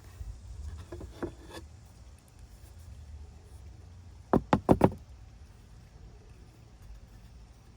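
Four quick, sharp knocks in a row just past the middle, with a low rumble and a few faint handling clicks in the first couple of seconds.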